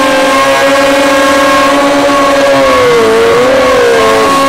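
Sport motorcycle engine held at high revs, loud and steady in pitch, with a brief dip and recovery about three seconds in.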